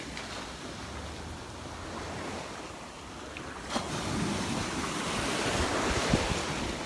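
Gulf of Mexico surf washing onto the beach, with wind buffeting the microphone; the wash swells louder about halfway through.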